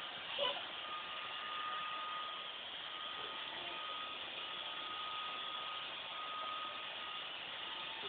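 iRobot Roomba robot vacuum cleaner running: a steady whirring hiss of its motor and brushes with a thin steady whine over it. A brief louder sound about half a second in.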